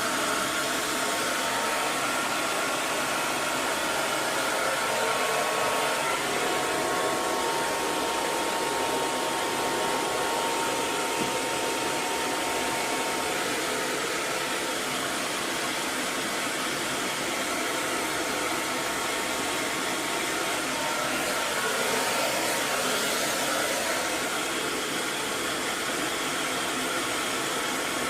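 Hair dryer blowing steadily: an even rushing noise with a faint thin whine mixed in, its tone shifting slightly a few times.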